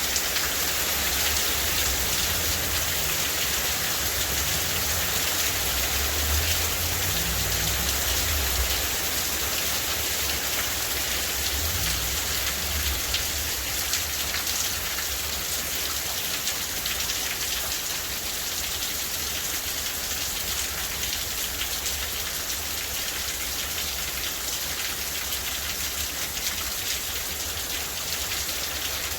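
Steady heavy rain falling with a dense hiss, and a low rumble underneath through roughly the first dozen seconds.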